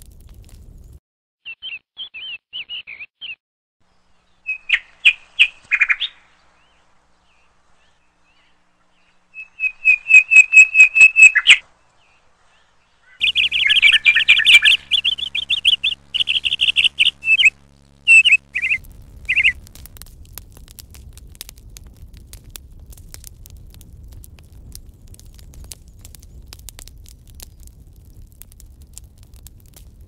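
A small songbird singing in bursts of rapid, high chirps and trills, with silent gaps between the phrases; the loudest run comes about ten seconds in. From about two-thirds of the way through, the birdsong gives way to a soft, steady crackling with small clicks, as the dry flesh of a ripe canistel is pulled apart by hand.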